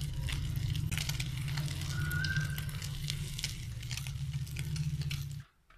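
Egg omelette frying in ghee on a flat iron tawa, sizzling with many small crackling pops over a low steady hum. The sound cuts off suddenly near the end.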